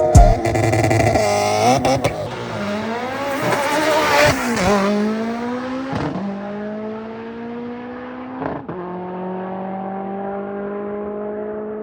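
Car engine revving up and down, then from about six seconds in pulling steadily with its pitch slowly rising.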